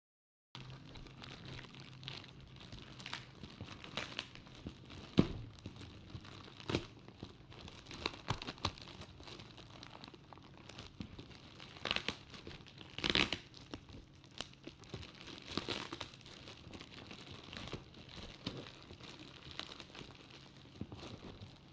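Packaging being handled and torn open while unboxing an exhaust fan: irregular crinkling and tearing with scattered sharp clicks, the loudest about five seconds in and again around thirteen seconds.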